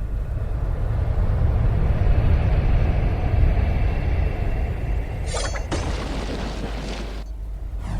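A loud, steady low rumble, like a heavy engine, with a short hiss about five seconds in and a sudden break shortly before the end.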